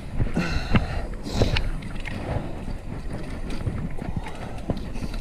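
Wind buffeting the microphone of a chest-mounted action camera on a moving bicycle, over road rumble with frequent small rattles and clicks, and a brief squeak about half a second in.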